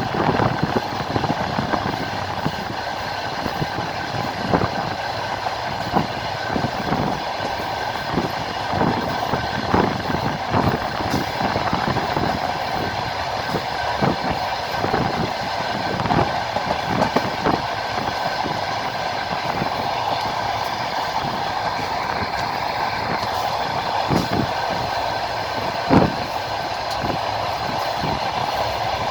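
Passenger train running along the line, heard from inside a carriage at the window: a steady rumble and rush with the irregular clatter of wheels over rail joints, and one louder knock near the end.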